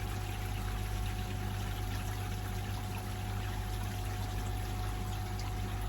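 Water pouring steadily through a koi pond bakki shower, falling through its stacked trays back into the pond, with a steady low hum underneath.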